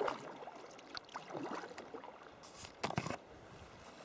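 Sea kayak paddle strokes and water splashing and gurgling around the kayak, in irregular splashes. The loudest stroke comes about three seconds in.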